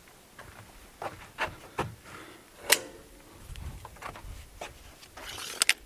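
Scattered sharp knocks and clicks of handling around a log on a sawmill, the loudest a little under three seconds in, with a rustling scrape near the end.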